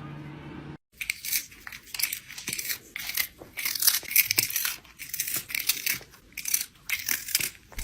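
Irregular bursts of crinkling and tearing, coming every second or so in uneven spurts, after a short break about a second in.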